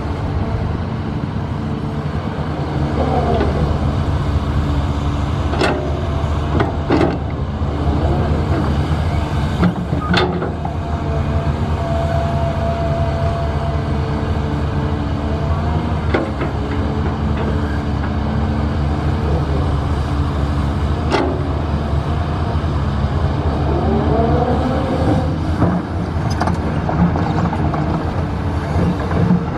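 Heavy diesel construction machinery running steadily, with several sharp metal clanks and a couple of rising whines from the engine or hydraulics.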